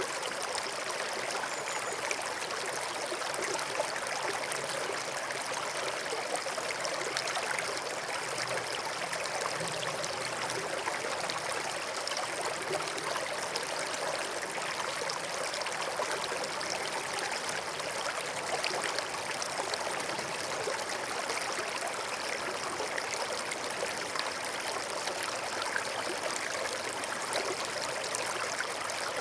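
Forest stream flowing and trickling steadily over stones, a continuous babble of running water with fine splashes and no breaks.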